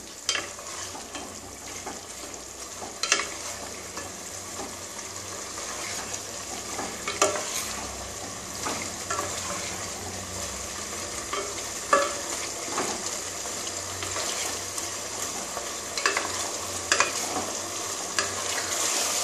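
Chicken pieces sizzling in mustard oil and masala while being stirred with a wooden spatula, with a few sharp knocks and scrapes of the spatula against the pot. The heat is turned up to cook off the released juices and sauté the chicken until the oil separates.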